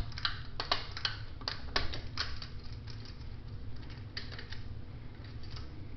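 42-inch Caribbean Breeze ceiling fan just switched to high speed, running with a steady low hum. Over it comes a run of irregular light clicks and ticks, densest in the first couple of seconds and thinning out after.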